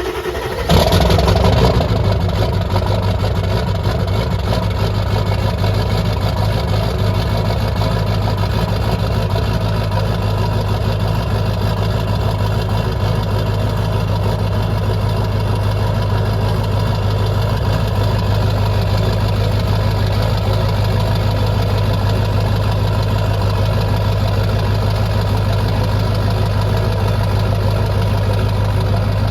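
7.3 Powerstroke V8 turbo diesel being started through a newly fitted axle-dump exhaust: it catches within the first second with a brief louder burst, then settles into a steady, loud idle.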